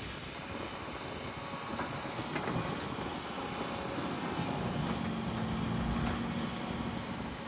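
Can-Am side-by-side utility vehicle driving over rough farm ground: a low engine rumble with rattling, and a steady engine tone that comes in about halfway through.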